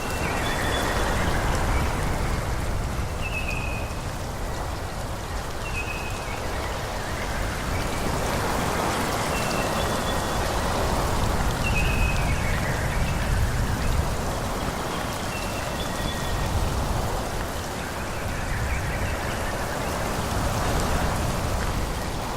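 Wind rushing through forest trees, swelling and easing in gusts every few seconds. Short, high, slightly falling chirps recur every second or two above it.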